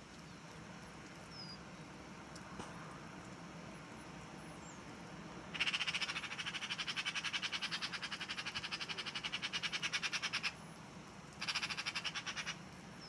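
A bird's rapid rattling chatter, about ten pulses a second, starting a little before halfway and lasting about five seconds, then a shorter burst near the end. Faint short high chirps come earlier.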